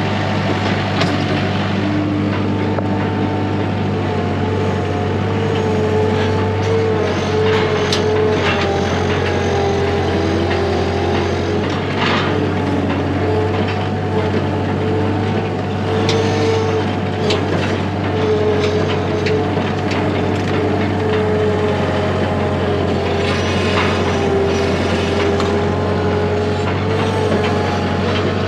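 An engine running steadily with a constant low hum and a wavering whine above it, and a few sharp knocks or clanks.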